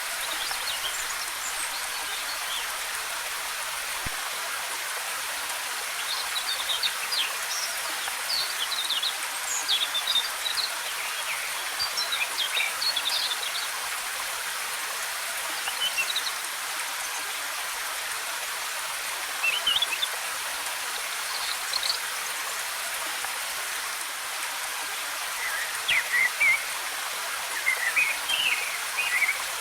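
Waterfall: a steady rush of cascading water, with forest birds chirping in short quick bursts that come in clusters several times.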